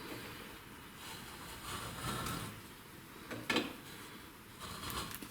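A reamer cutting the camshaft bearing seats of an aluminium cylinder head: faint metal scraping, with a single sharp knock about three and a half seconds in.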